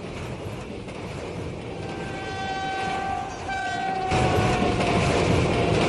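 Train running on the rails, its horn sounding from about two seconds in, in two blasts, the second drifting slightly down in pitch; the running noise grows louder about four seconds in.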